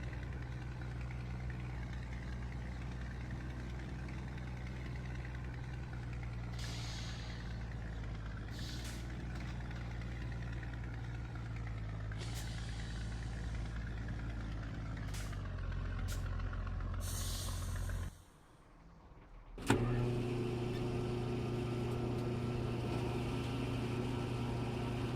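Scania truck's diesel engine running steadily, with several short hisses of air a few seconds apart. Near the end the engine sound drops away for about two seconds and then comes back abruptly.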